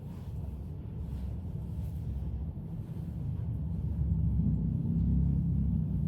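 Deep low rumbling drone of a gong being played softly, swelling louder about four seconds in.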